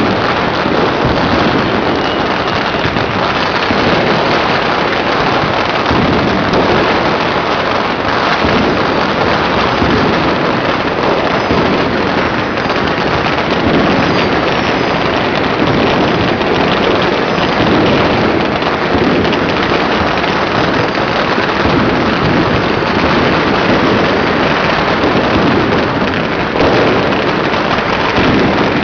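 Dense, unbroken crackling and banging of many firecrackers and fireworks going off at once, with a few faint rising whistles near the middle.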